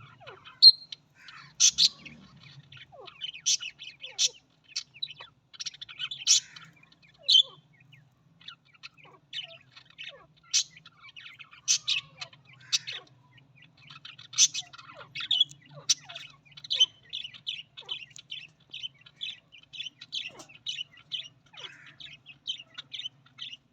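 Budgerigars chirping, with sharp high chirps and short squawks that turn into a quick run of chirps at about three a second in the second half.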